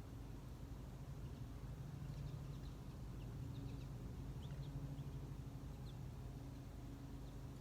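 A few faint, short, high bird chirps scattered over several seconds, above a steady low hum.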